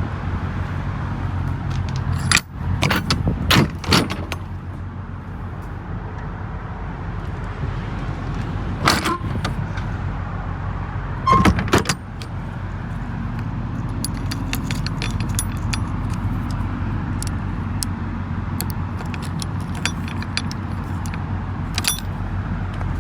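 Semi truck's diesel engine idling steadily, with several sharp clicks and knocks over it, a cluster about two to four seconds in, another near the middle, and lighter ticks later on.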